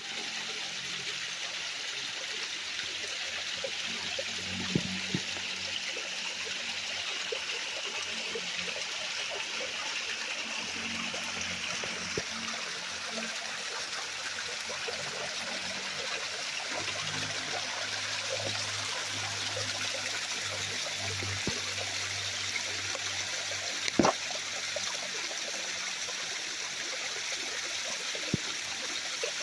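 Small waterfall splashing steadily, with a few sharp knocks, the loudest about 24 seconds in.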